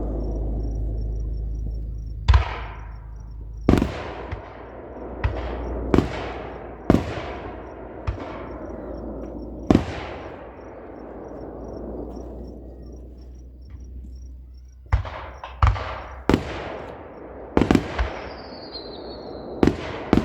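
Fireworks display: about a dozen sharp shell bursts, in one cluster through the first half and a quicker run near the end, each trailing off into a low rolling rumble and echo.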